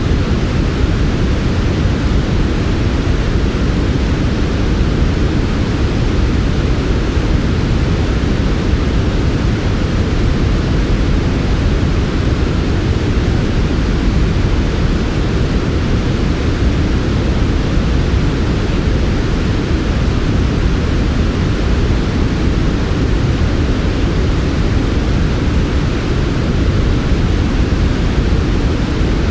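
A steady, unchanging synthetic noise track, sold as white noise for sleep. It is weighted toward the low end: a dense low rush with a softer hiss above, no variation in level.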